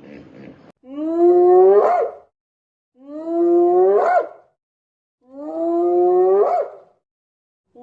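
An animal calls three times, each a long, pitched call of about a second and a half that holds its pitch, then rises sharply and breaks off at the end.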